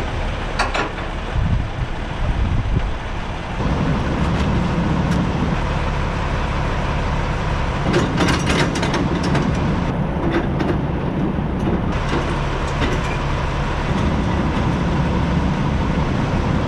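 Semi truck's diesel engine running with a steady low hum, which gets louder about three and a half seconds in. A few short clicks and clanks sound over it.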